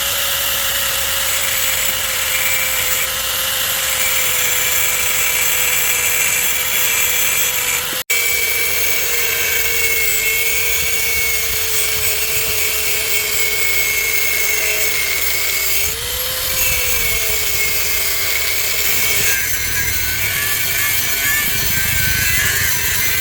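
Handheld power tool running continuously with a harsh, hissy working sound, its motor pitch wavering slightly under load. It drops out for an instant about eight seconds in.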